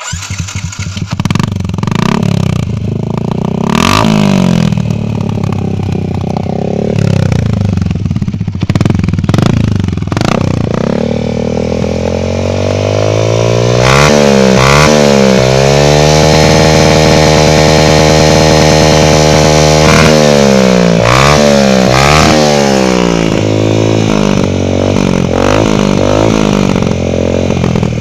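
Yamaha MX 135 single-cylinder four-stroke motorcycle engine running through a homemade exhaust. It is revved with a couple of quick blips about halfway, held at higher revs for a few seconds, blipped again and then let settle back.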